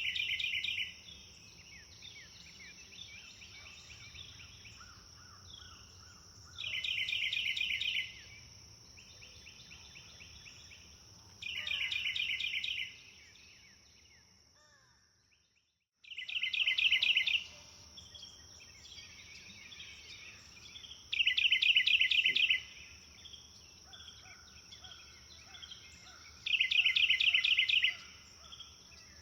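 Songbirds singing: one bird repeats a loud, rapid trill lasting just over a second about every five seconds, with quieter chirps from other birds between. A steady high-pitched buzz runs underneath. About halfway through, everything fades out briefly and starts again.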